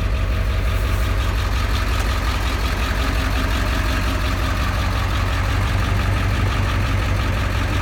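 A 7.3-litre V8 diesel pickup engine idling steadily.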